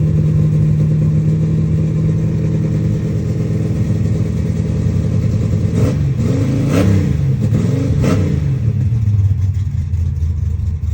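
Small-block Chevy 357 V8 with a solid flat-tappet cam running through Spintech Super Stock 1000 mufflers: a steady fast idle, then revved three quick times about halfway through, dropping back to a lower, steady idle.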